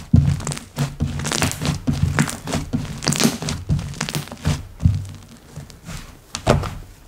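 Hands squeezing, pressing and stretching slime, making an irregular run of short squishing and popping sounds.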